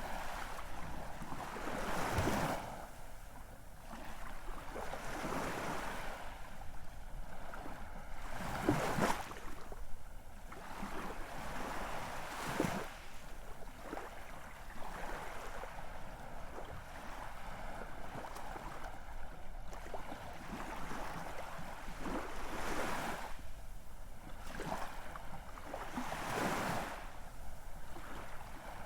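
Ocean waves washing in, the rush of water swelling and falling back every few seconds, with a sharp splash as each wave breaks.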